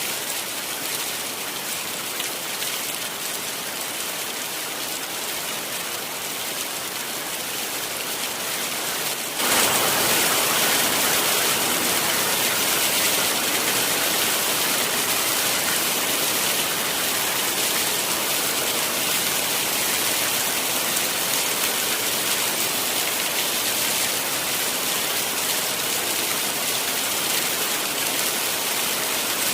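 Heavy rain falling steadily as an even hiss of drops, growing suddenly louder and brighter about a third of the way in.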